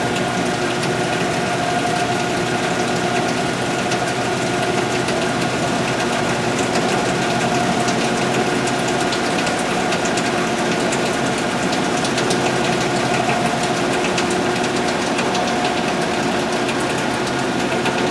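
Tannewitz vertical band saw running with no blade fitted, its motor and bandwheel (flywheel) spinning at speed: a steady, even machine hum with a constant whine.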